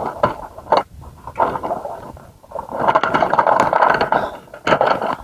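Rustling and scraping as someone forces a way through dense undergrowth, in two loud stretches with a quieter gap between and a few sharp snaps.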